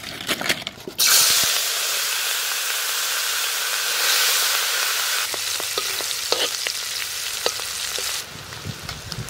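Small prawns sizzling in hot mustard oil in a kadai. The sizzle starts suddenly and loud about a second in and dies down near the end. A metal spatula stirring them adds short scraping clicks.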